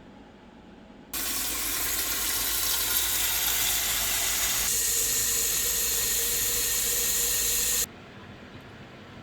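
A loud, steady hiss like running water or steam starts suddenly about a second in and stops abruptly near the end, with a faint steady tone joining it partway through.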